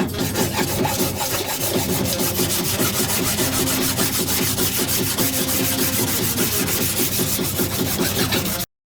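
An abrasive tool working on car-body sheet metal: a steady, rapid rasping made of many quick, even strokes a second. It cuts off abruptly near the end.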